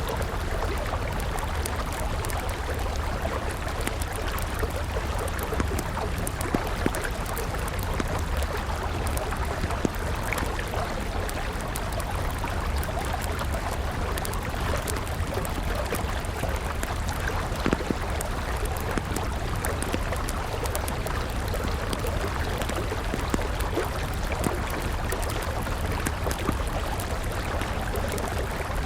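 Steady rush of a flowing river, with the scattered small pops and crackles of a wood campfire burning over it.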